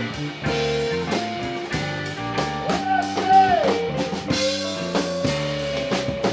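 A band playing a reggae-rock song on drum kit and guitar. About three seconds in a guitar line bends its notes up and down, then holds one long note.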